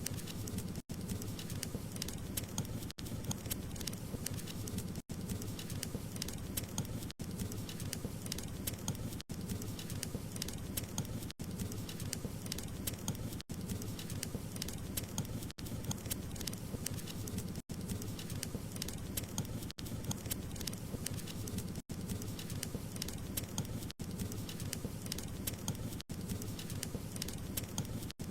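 Wood fire burning in a fireplace: a steady low rumble of flames with many small crackles and pops from the burning wood. Brief dropouts in the sound come about every two seconds.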